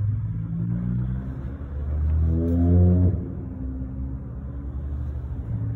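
A car engine running, rising in pitch and getting louder for about a second, then dropping back suddenly about three seconds in and running on steadily.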